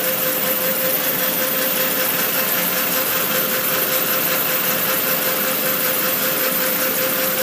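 Turbocharged 1.8-litre four-cylinder engine of an Audi A4 idling, with its APR R1 diverter valve making a steady pulsating hiss over a constant tone.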